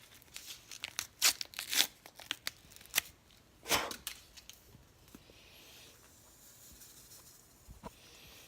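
A Kool-Aid drink-mix packet being torn open: a run of sharp crinkling and tearing noises for the first few seconds, the longest tear about four seconds in. Then a faint soft hiss.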